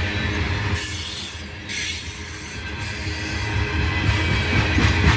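Aluminum freight cars of a long coal train rolling past, a steady low rumble of wheels on rail, with a thin high-pitched wheel squeal from about a second in until about three seconds.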